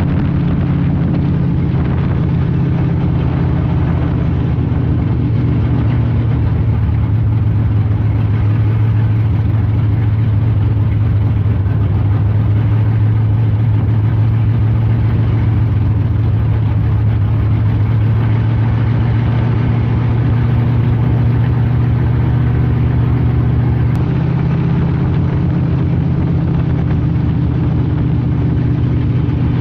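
Street stock race car engine running loud and steady at a fairly constant speed, its tone shifting slightly near the end.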